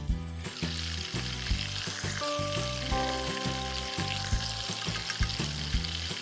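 Whole tomatoes and green chillies sizzling with spices in hot oil in a wok, the steady frying hiss filling in about half a second in. Background music with a regular beat plays under it.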